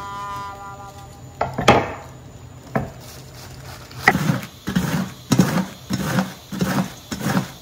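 Cabbage being shredded on a handheld mandoline slicer. There are a few separate knocks at first, then from about four seconds in a steady rhythm of slicing strokes, about two a second.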